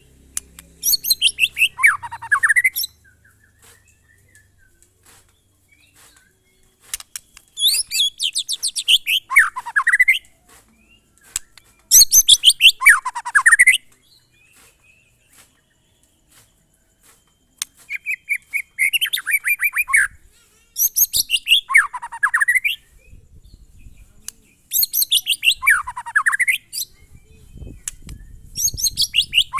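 White-rumped shama (murai batu) singing in the monotonous 'glondong' style: the same phrase of quick notes, falling from very high to much lower pitch, repeated about seven times with pauses of a second or more between.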